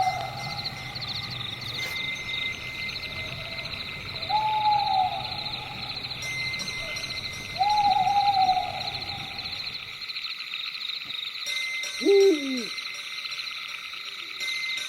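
An owl hooting: two drawn-out hoots, each about a second long and falling away at the end, a few seconds apart. A louder call swoops steeply down in pitch about twelve seconds in. Throughout, a steady high-pitched insect chorus trills.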